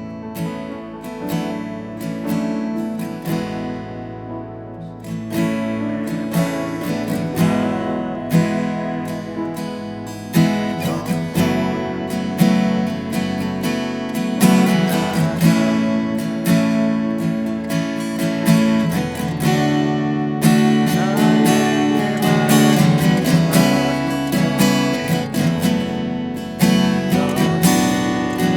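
Acoustic guitar strumming the chords of a closing worship song, in a steady rhythm.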